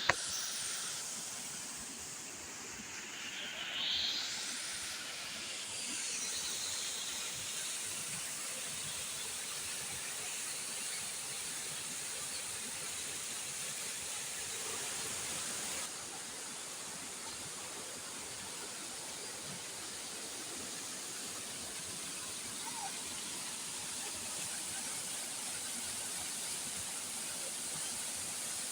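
Waterfall: a steady rush of falling water, with a brief rising sound about four seconds in.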